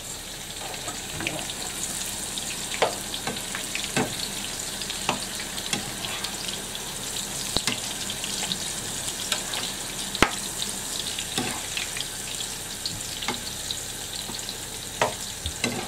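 Sweetcorn and courgette fritters sizzling steadily in shallow oil in two frying pans. A spatula clicks and scrapes against the pans now and then as the fritters are turned.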